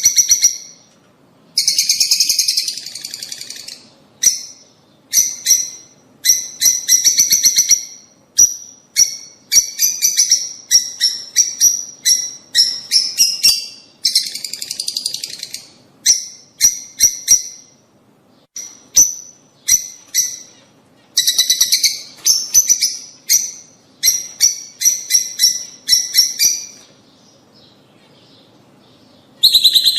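Lovebirds chattering: rapid, high, shrill chirps in bursts of up to about two seconds with short breaks, and a longer pause near the end.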